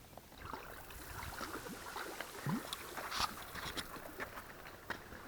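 Kayak paddle strokes in lake water: light splashing and dripping, with scattered small clicks and splashes, the largest about three seconds in.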